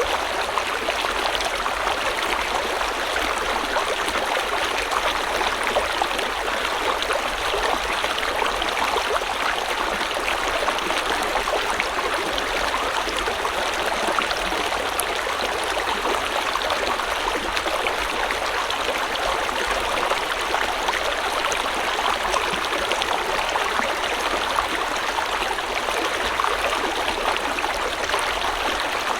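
River water flowing steadily over rocks, a constant rushing and trickling.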